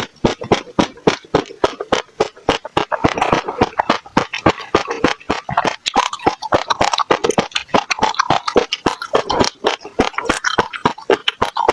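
Close-up chewing of passion fruit pulp, the seeds crunching and popping between the teeth in many crisp clicks, several a second, amid wet mouth sounds.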